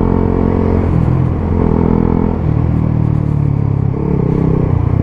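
125cc single-cylinder motorcycle engine running under way; the revs drop a little about two seconds in and then hold steady.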